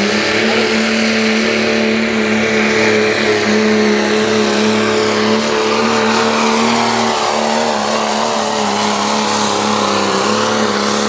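8,000 lb Limited Pro diesel four-wheel-drive pulling truck's engine running flat out under load as it pulls the sled, a loud, steady, held pitch with a slight waver.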